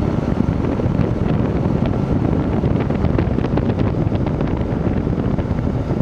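Vintage Emerson Quiet Kool window air conditioner running, its fan air rushing over the microphone as a loud, steady rumbling hiss with small clicks through it.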